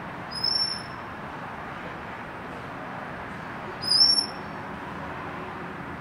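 A perched black bird gives two short, high whistled calls about three and a half seconds apart, the second one louder, over steady background noise.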